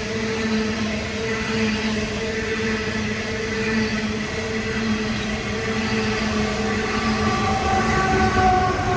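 Loaded coal hopper wagons of a long freight train rolling past on the rails: a steady rumble of wheels with a constant underlying hum, and higher wavering tones joining in the last couple of seconds.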